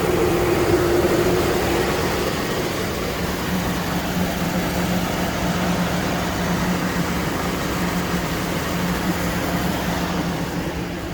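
Chevy Silverado pickup engine idling steadily and smoothly, with no knocking heard, its low oil freshly topped up.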